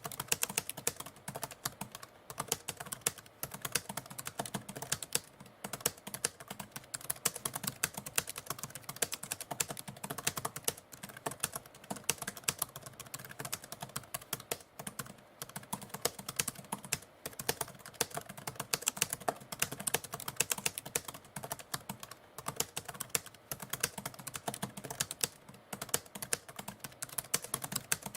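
Typewriter keys being typed rapidly and continuously: a dense, uneven stream of key clicks with no breaks.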